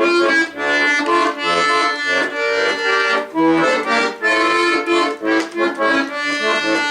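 Bayan (Russian button accordion) played solo: a melody over sustained chords, with short bass notes punctuating it underneath.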